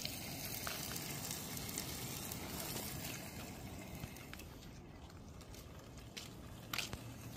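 Faint, steady sizzling from tofu frying in a pan on a portable butane camp stove, with a few light clicks and one sharper tick near the end.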